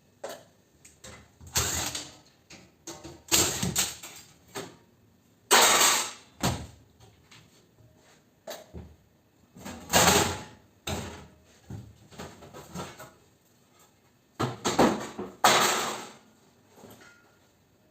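Irregular clanks, bangs and scrapes of metal being handled and pried apart while an air-conditioner unit is dismantled for scrap, with quiet gaps between strokes.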